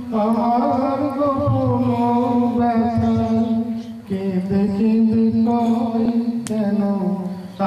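A man singing a romantic song in long, held notes, breaking between phrases about four seconds in.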